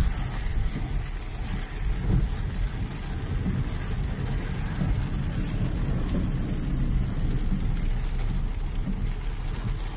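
Heavy rain falling on a car, heard from inside the cabin, over the car's low, uneven rumble as it drives through a flooded street.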